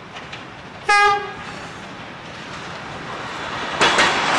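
Redhen diesel railcar set giving one short horn toot about a second in, then approaching with a rising rumble. Near the end the wheels start clicking sharply over the rail joints as it draws close.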